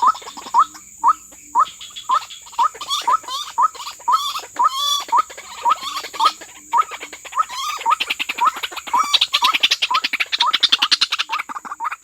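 White-breasted waterhen calling: a long run of short rising notes, two to three a second, with harsher rasping notes mixed in and a fast chattering near the end.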